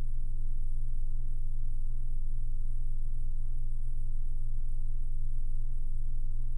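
Steady low electrical hum and buzz, unchanging throughout.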